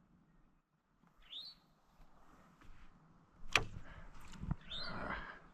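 A single short bird chirp about a second in, then a sharp click about three and a half seconds in, a fainter click, and a brief rustle.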